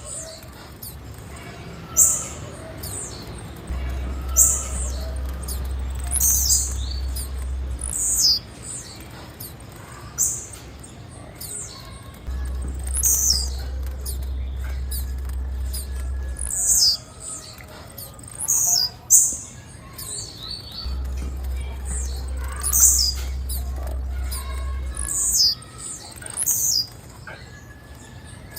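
Female blue-black grassquit (tiziu) calling: short, high chirps that fall in pitch, one every second or two. Under them, a low hum switches on and off in stretches of about four seconds.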